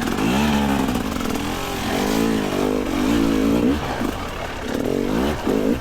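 Two-stroke dirt bike engine revving up and down over and over, the throttle worked in short rises and falls while riding over rocky ground.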